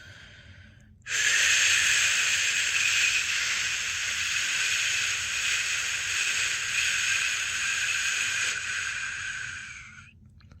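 A person's voice making one long, steady 'shhh', held for about nine seconds. It starts about a second in and fades away near the end. This is the shushing of the shush-pat method, used to lull a newborn to sleep.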